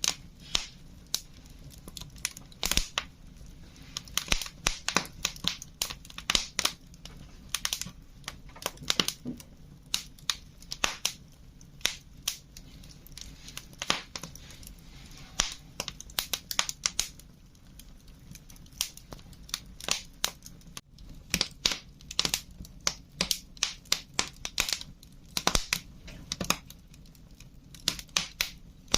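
Wood fire crackling: irregular sharp pops and snaps, at times several in quick succession, over a faint steady hiss.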